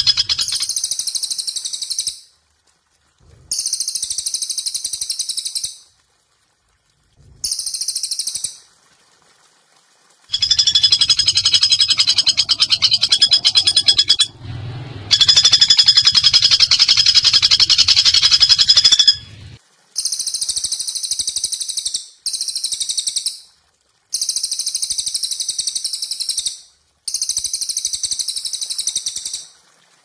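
Bird calls from a looped songbird-training recording: repeated bursts of high, rapidly pulsed trilling calls, each lasting one to four seconds, with short silent gaps between them.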